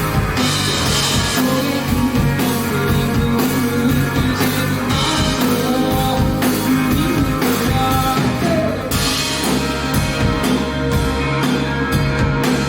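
A rock band playing live, with electric guitar, bass and drum kit.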